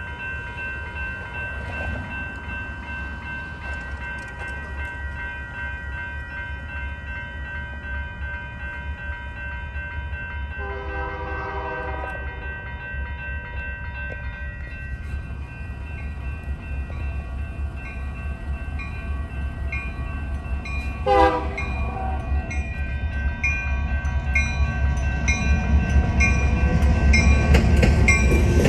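Grade-crossing warning bells ring steadily as an approaching Union Pacific local led by GP60 diesels sounds its horn, a long blast about ten seconds in and a short one about twenty-one seconds in. The locomotive's rumble grows louder toward the end as the train nears the crossing.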